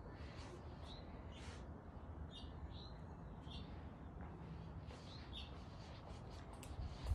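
Small birds chirping: scattered short, high chirps, faint, over a low steady rumble.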